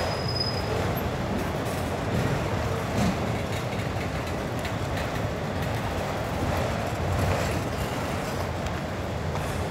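Cars of a long Norfolk Southern manifest freight train rolling past: a steady rumble of wheels on rail, with a few faint knocks.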